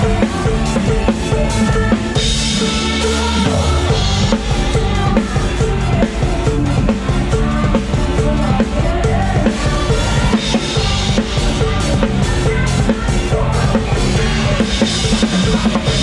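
Live band music driven by a drum kit, with busy bass drum and snare strokes under a bass line. A bright splashing wash, like cymbals, comes in about two seconds in and again near the end.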